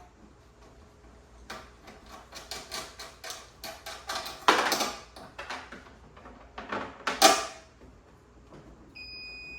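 Metal clicks and clatters of tools and terminal hardware as battery leads are taken off, with two louder knocks. Near the end a continuous high electronic alarm tone starts.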